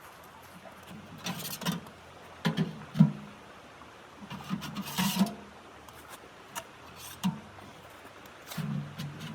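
Irregular knocks and clunks from something being handled, in several short clusters, over a faint steady low hum.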